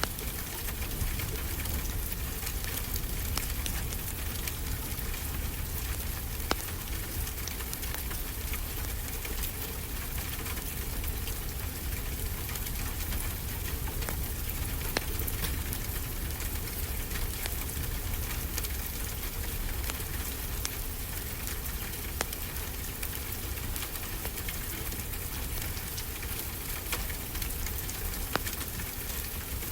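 Steady rain hissing, with a wood fire crackling and giving scattered sharp pops and a low rumble underneath.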